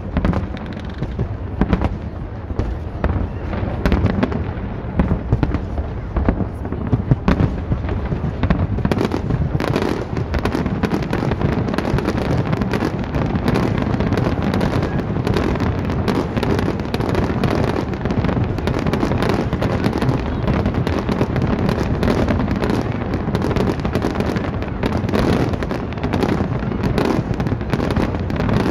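Aerial fireworks going off in a dense, continuous barrage of bangs and crackle, with no gaps; about a third of the way in the crackling grows thicker and sharper.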